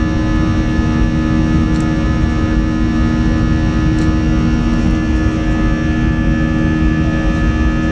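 Airbus A320 jet engines running steadily, heard inside the passenger cabin as loud, even engine noise with several steady humming tones.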